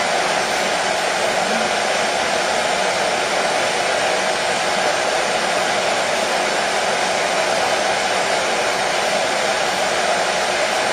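Hair dryer running steadily: a continuous even whoosh of blown air with a motor hum, unchanging in level, used as white noise to soothe a colicky baby.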